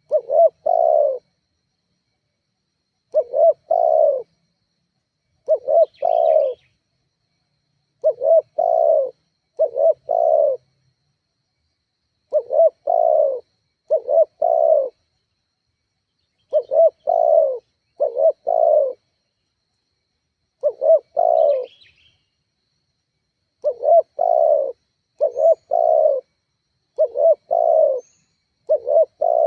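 Spotted dove (tekukur) cooing over and over: short phrases of two or three low coos, about a second each, repeated every one to three seconds with silence between. The dove is calling persistently, the kind of call used as a lure to set other doves calling. Twice a faint high chirp from another bird.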